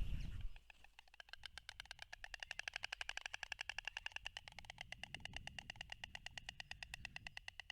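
White stork clattering its bill: a rapid, even run of clicks, about ten a second, starting about a second in and going on for several seconds.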